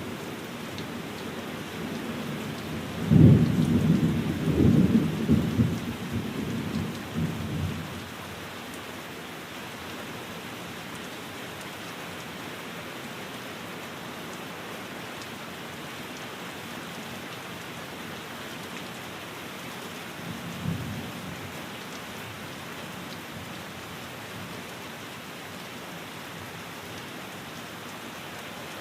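Steady rain falling, with a rumble of thunder about three seconds in that rolls on for about five seconds, and a shorter, softer rumble about twenty seconds in.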